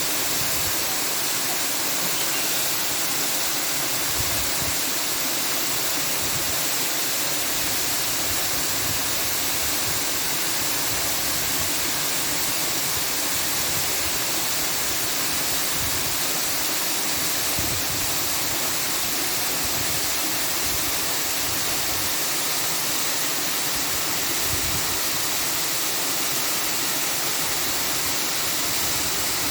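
Steady, even rushing noise, unbroken and unchanging, weighted toward the high end.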